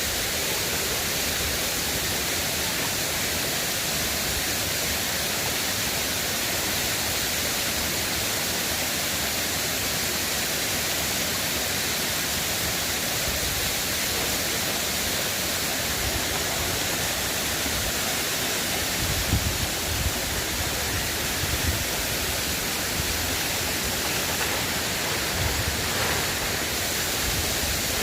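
River water rushing in a steady, even hiss, with a few low bumps about two-thirds of the way in and again near the end.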